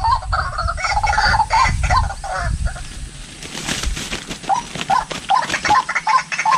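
White-breasted waterhen calls: a run of short, rising notes, busy and overlapping at first, then repeated about two or three times a second. A low rumble lies under the first few seconds.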